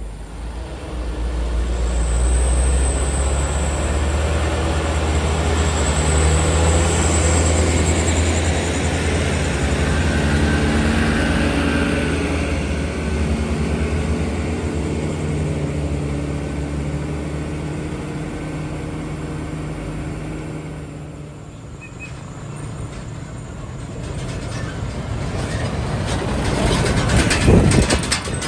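A heavy diesel truck's engine rumbles deep and loud as it passes, then fades away over several seconds. Near the end another vehicle comes up loudly.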